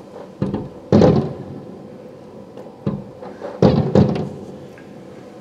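Aerial firework shells bursting: five sudden booms, two in the first second and three more between about three and four seconds in, each trailing off in a rumble. The loudest come about a second in and just before four seconds.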